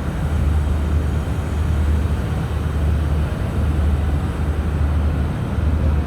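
GEU20 diesel-electric locomotive engine running steadily with a low drone.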